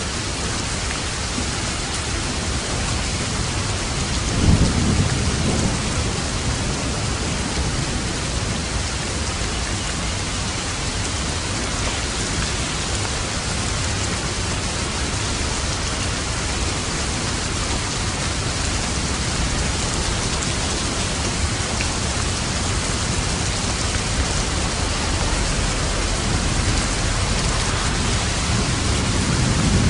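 Steady heavy rain falling, with a low rumble of thunder about four seconds in and another near the end.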